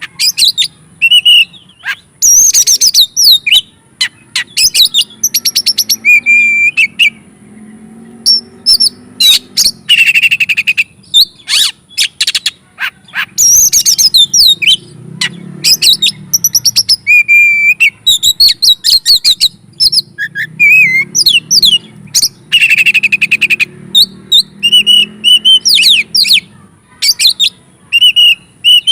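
Oriental magpie-robin (kacer) in full, hard song: a fast, varied run of loud whistles, trills and sharp chattering notes, broken by short pauses.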